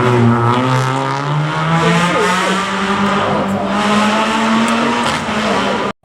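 Rally car engine running at high revs under acceleration, its pitch climbing steadily, then cut off abruptly near the end.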